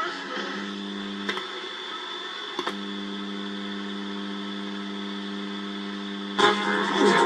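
Vintage Sony flip-clock radio giving a steady electrical hum or buzz, with a click about a second in and another about a second later as it is switched. Radio music cuts back in abruptly near the end.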